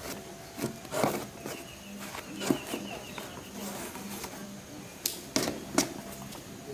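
A series of sharp knocks and clanks at uneven intervals, with a faint high chirping in the background.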